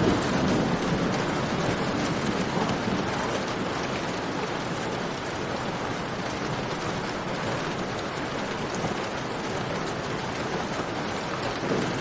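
Steady heavy rain mixed with a crackling campfire, its pops and snaps scattered through the hiss. A low rumble swells at the start and again briefly near the end.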